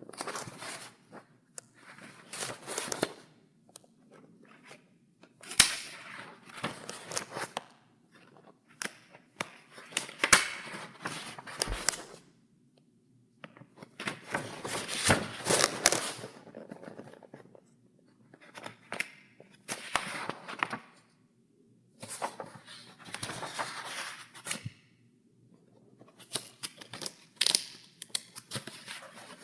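Paper pages in a file being turned one after another: about ten crisp rustles, each lasting a second or two, with sharp snaps as the sheets flip and short pauses between turns.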